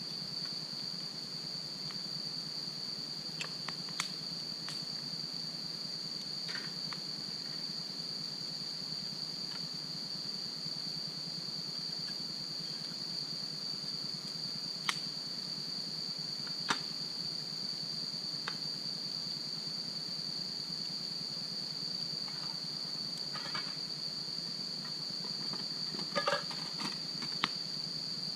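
Wood fire burning, with occasional sharp pops and crackles, over a continuous high, steady trill of crickets.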